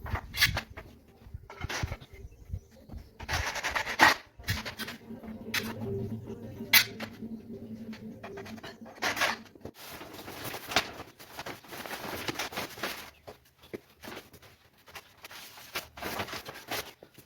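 Knocks, taps and scraping of timber pieces being handled and fitted together while a wooden door frame is assembled, with a steady low hum for several seconds around the middle.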